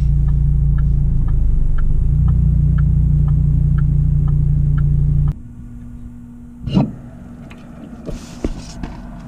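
Steady low rumble of a car's engine and road noise heard inside the cabin, with a turn signal clicking about twice a second. It cuts off suddenly about five seconds in, leaving a quiet hum broken by a short knock.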